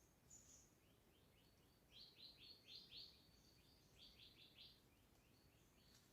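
Songbirds singing faintly: a rapid series of short notes, each dropping in pitch, about five a second, in two runs through the middle, with a few higher thin chirps near the start.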